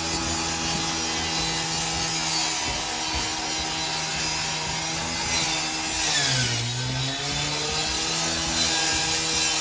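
Two-stroke gas-powered saw running at high revs, its pitch dropping for about a second around six seconds in as it bogs under load, then climbing back.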